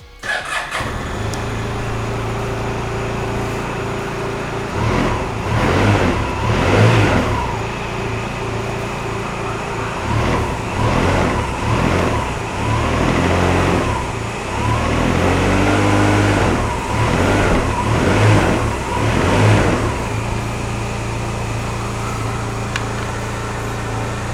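A Honda Silverwing 600 scooter's parallel-twin engine starts up and settles into a steady idle. From about five seconds in it is revved in a series of throttle blips that rise and fall, then it drops back to a steady idle near the end.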